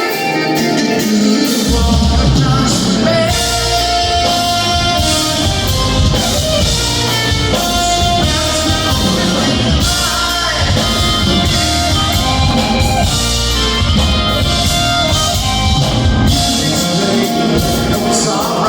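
Live progressive rock band playing loudly, with guitar and keyboards; heavy bass and drums come in about two seconds in.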